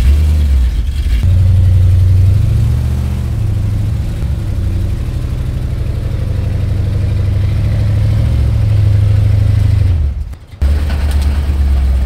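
A 1964 Dodge 440's engine runs low and uneven. Its revs rise about a second in, hold, and ease off, then the sound breaks off briefly near the end and comes back.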